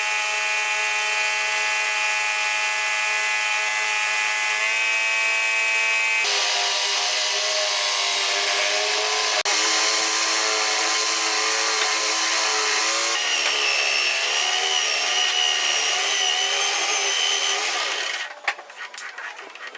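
Electric motor of a wood lathe running with a steady whine and a hiss of cutting. Its pitch shifts a few times and wavers under load, then it stops near the end.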